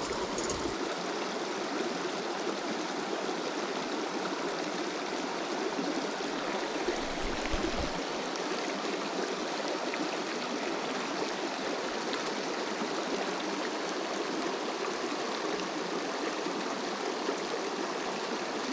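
A river stream flowing over rocks: a steady, even rush of water, with a brief low bump about seven seconds in.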